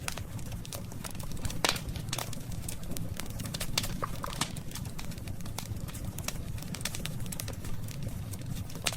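Burning wood fire crackling, with sharp pops and snaps scattered irregularly over a steady low rumble.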